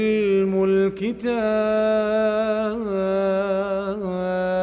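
A man's Quran recitation voice holding out the closing word in a long, melodic, chant-like note, the elongated final vowel of a surah's last verse. There is a brief break about a second in, then one long steady held note.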